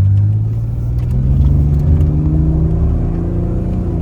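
Old pickup truck's engine accelerating hard at wide-open throttle, its pitch climbing slowly and steadily, then levelling off near the end.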